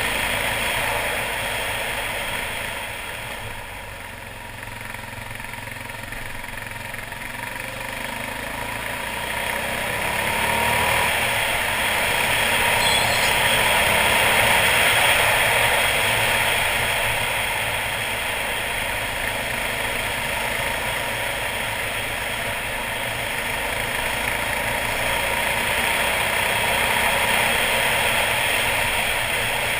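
Suzuki DR800's big single-cylinder engine running as the motorcycle is ridden along, with a steady rushing noise over it. It eases off about four seconds in and builds up louder again around the middle.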